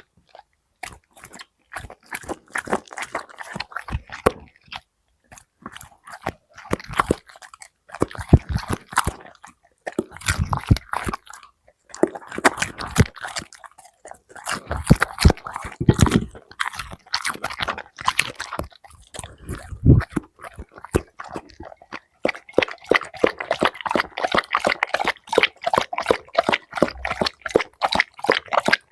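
Labrador crunching and chewing dog food, in quick bursts of sharp crunches with brief pauses, becoming a faster, denser run near the end.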